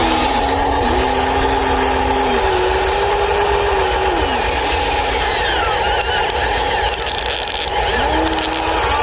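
Electric motors of radio-controlled construction models running, a steady whine whose pitch steps up and down every second or so as they work.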